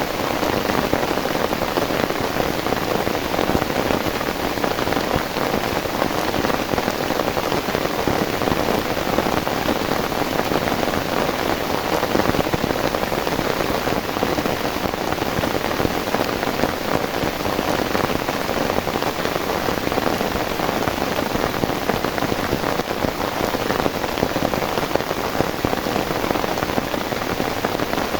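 Heavy rain falling steadily, a dense even patter of drops striking a surface.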